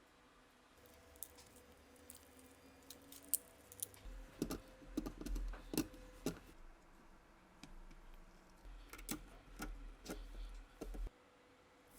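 Small metal parts and hand tools clicking and tapping as they are handled on a workbench during gun restoration, in faint irregular bursts. The clicks are busiest about four to six seconds in and again from about nine to eleven seconds, over a low rumble that cuts off suddenly near the end.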